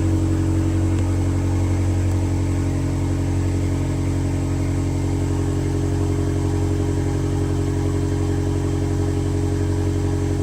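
Subaru STI turbocharged flat-four engine, fuelled on E85, idling steadily while it warms up after a cold start.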